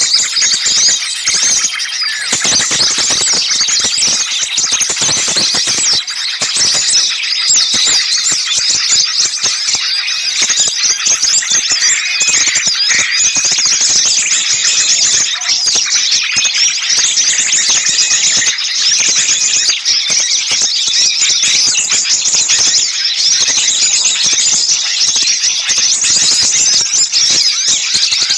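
A dense chorus of many small songbirds chirping and calling rapidly over one another without a break: agitated, noisy small-bird calls of the kind used as a lure recording to draw birds in.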